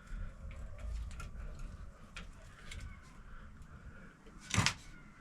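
Handling noise of motorcycle fork parts being refitted: scattered light clicks and one louder knock near the end, as the fork spring is put back over the damping rod.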